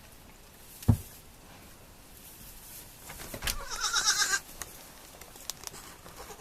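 A sharp thump about a second in, then a young goat kid bleating once, a high call lasting about a second.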